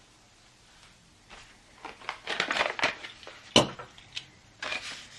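Plastic packaging crinkling and rustling in irregular bursts as it is handled, with one sharp click about three and a half seconds in.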